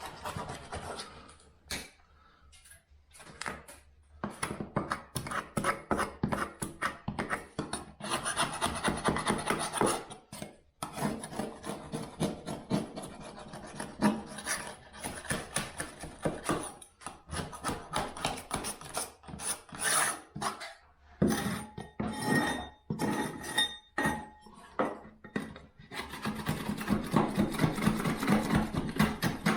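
A hand tool rasping back and forth against a plasterboard surface in quick repeated strokes, in runs broken by short pauses.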